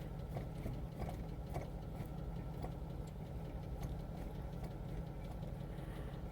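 Chevy TrailBlazer heard from inside the cabin, with a steady low rumble and scattered light ticks. It is running on wheel bearings that the owner says are messed up.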